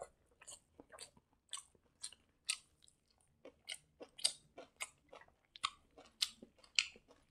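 A person chewing a mouthful of hand-fed rice, close to the microphone: soft, irregular mouth clicks and smacks.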